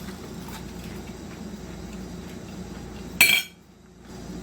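Small utensil and eating sounds over a steady room hum, with one sharp clink of cutlery against a dish a little after three seconds in, after which the background briefly drops away.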